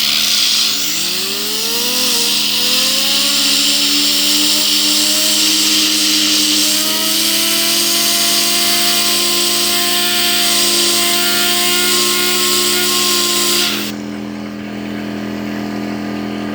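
Compressed air hissing hard from a blow nozzle, spinning a fidget spinner up into a whine that rises in pitch over the first few seconds and then holds steady. The air cuts off about fourteen seconds in, leaving a steady low hum.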